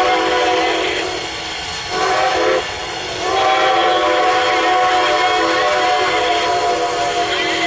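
A locomotive's chime whistle sounding several notes at once: a long blast easing off, a short blast, then a long held blast, the end of the long-long-short-long grade-crossing signal.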